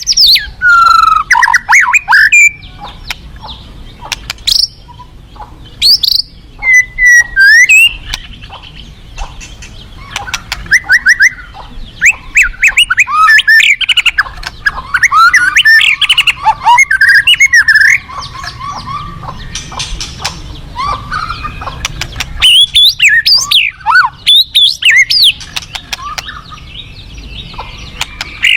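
White-rumped shama (murai batu) singing loud, varied phrases of gliding whistles, fast chattering trills and sharp clicks, with short pauses between the bursts.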